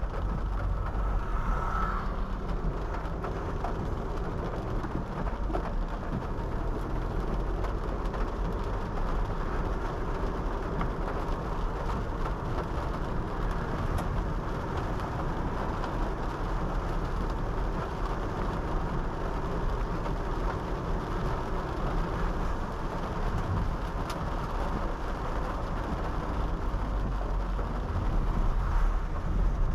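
Honda City 5th-generation sedan driving on a wet road in the rain: a steady rumble of tyre and road noise with rain.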